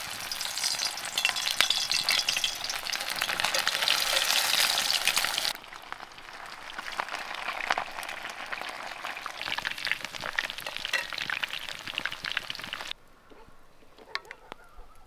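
Food sizzling in hot fat in a pan, a dense hiss full of small spattering pops. It drops abruptly to a quieter sizzle about five and a half seconds in, and drops again to a faint crackle near the end.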